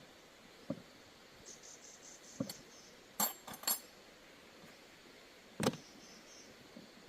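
A few separate metallic clinks and knocks, about five in all, from tools or metal parts being handled during a tyre inner-tube repair. A faint high chirping, like insects, sounds for a second or so early on.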